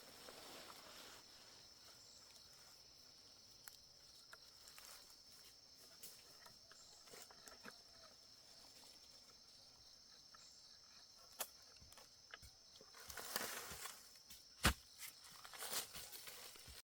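Insects droning steadily in one high pitch. Scattered rustles and clicks near the end, with one sharp knock.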